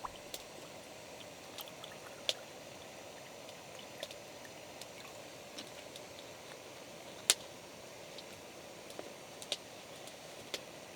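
Steady rain with scattered sharp drops landing irregularly, one markedly louder about seven seconds in.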